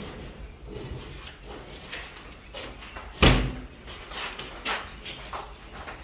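One loud bang about three seconds in, with lighter knocks and clatter around it.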